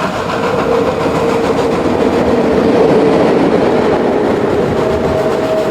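Steam train running: a steady rumbling clatter with a faint held tone over it.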